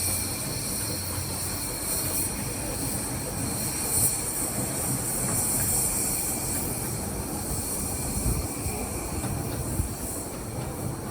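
Train on the 15-inch-gauge Ravenglass & Eskdale Railway running on its track, a steady rumble with a continuous high-pitched whine on top and a few short knocks.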